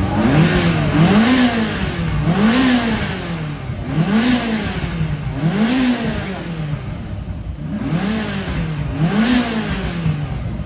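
A sports car's engine being blipped on the throttle while stationary, revving up and dropping straight back to idle about seven times, roughly every second and a half.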